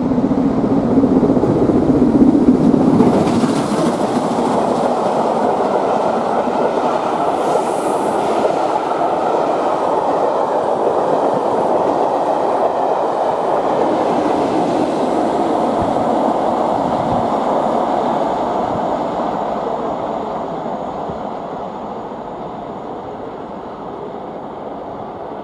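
Steam-hauled passenger train passing at speed, headed by the LMS Coronation class 4-6-2 steam locomotive: loudest about two to three seconds in, then a long run of coaches rolling by with the wheels clicking and rumbling on the rails, fading away over the last several seconds.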